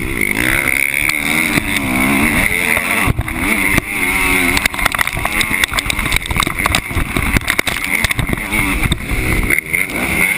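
Motocross bike engine heard from a camera mounted on the bike, revving up and falling back again and again as it is ridden round the track, with sharp knocks from the bumps.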